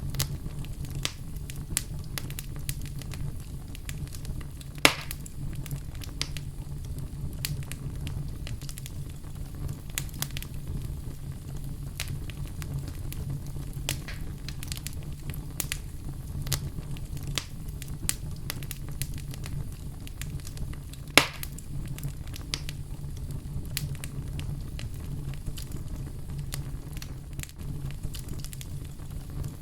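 Fireplace fire crackling: a steady run of small snaps and ticks over a low rumble, with two sharp, louder pops, one about five seconds in and one about twenty-one seconds in.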